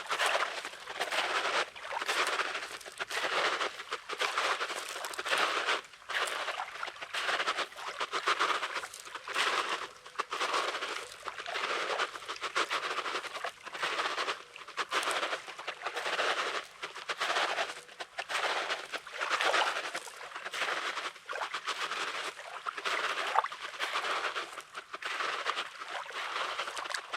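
Footsteps crunching on coarse, pebbly beach sand at a steady walking pace, about one step a second.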